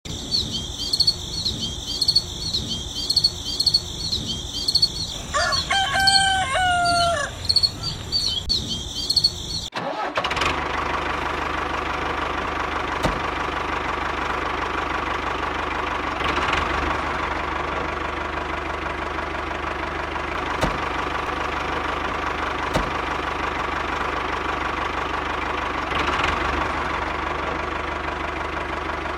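A rooster crows once over rhythmic high chirping. Then an abrupt cut to a mini diesel engine running steadily, with a light click every few seconds.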